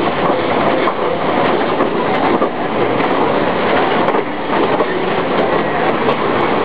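Passenger train running on its rails, heard from aboard: a loud, steady rumble and rattle of the wheels and cars.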